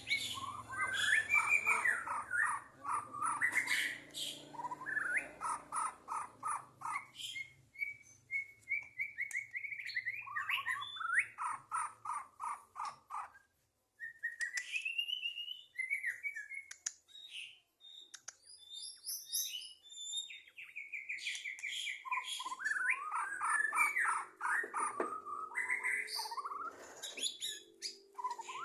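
White-rumped shama (murai batu) singing in long fast runs of repeated notes mixed with clear whistled phrases, with a couple of short breaks in the middle.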